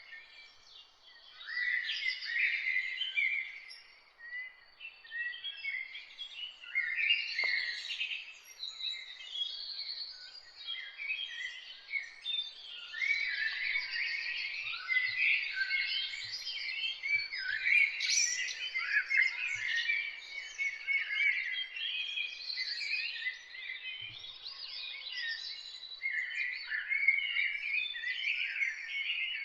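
A chorus of many songbirds singing and chirping at once, a dense overlapping stream of quick high chirps and song phrases.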